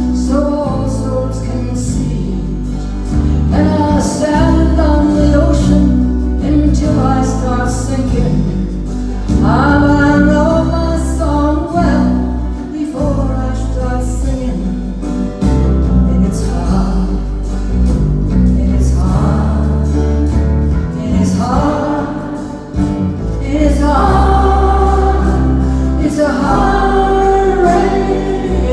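Live music: sung vocals, with what sounds like more than one voice, over instrumental accompaniment.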